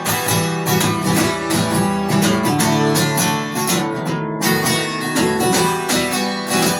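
Acoustic guitar strummed in a steady rhythm: an instrumental passage between the sung lines of a song.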